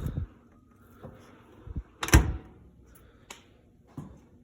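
Door and racks of a Frigidaire 18-inch dishwasher being handled: a few separate clunks and knocks, the loudest about two seconds in.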